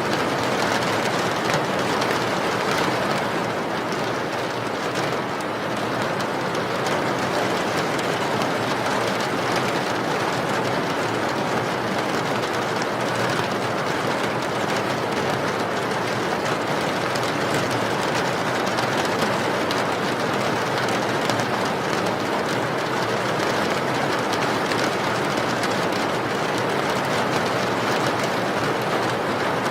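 Steady rain falling: an even, unbroken rush of dense drops.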